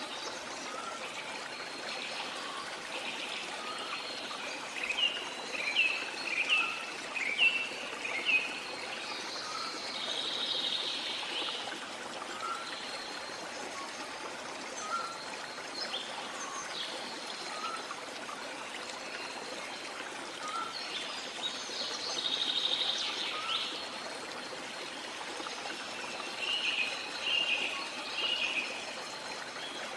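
Steady rush of a waterfall with jungle birds calling over it. A run of loud chirps comes about five seconds in, a short note repeats every couple of seconds, and more calls come near the middle and toward the end.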